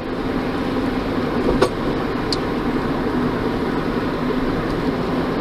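Steady engine and tyre road noise heard from inside a moving car, with a single short click about a second and a half in.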